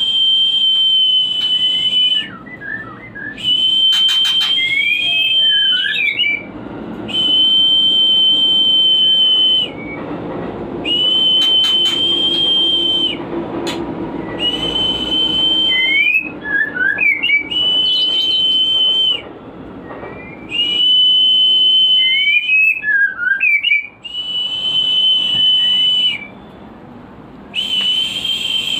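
White-rumped shama (murai batu) lure song: a series of long, steady, high whistled notes of about two seconds each, repeated roughly every three seconds, with short rising and falling chirps between them. It is a breeding lure meant to raise the birds' mating drive.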